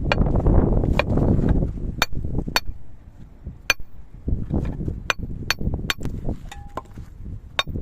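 Wind rushing on the microphone, easing after about two and a half seconds. Over it come about nine sharp, irregularly spaced knocks of hard objects striking together.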